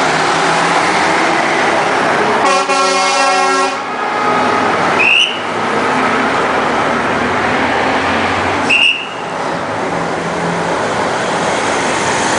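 Classic trucks passing in a parade, engines running steadily, with one truck's horn blowing a single steady blast of a little over a second about two and a half seconds in. Two short high chirps sound later, one around the middle and one about two-thirds of the way through.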